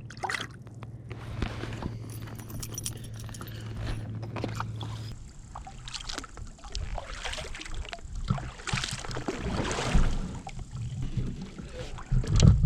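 A kayak being paddled in and brought ashore: water sloshing along the hull, with irregular paddle and hull knocks and scrapes and a louder knock near the end. A steady low hum runs under the first few seconds.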